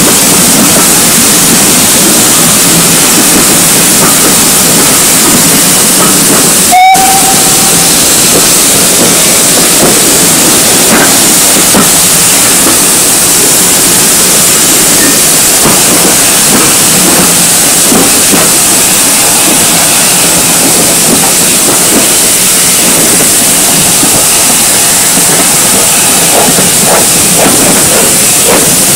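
Steam locomotive with a loud, steady hiss of escaping steam throughout. About seven seconds in, a sharp click is followed by a brief, short toot of its whistle.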